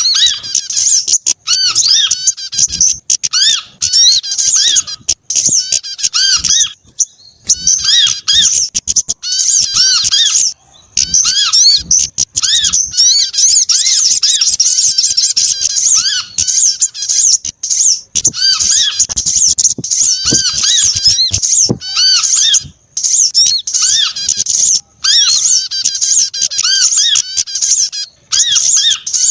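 Bird-luring recording of small songbirds calling: a loud, dense chatter of high, rapidly repeated squeaky notes with brief pauses, a mix of sogon, kemade, korlap and prenjak calls.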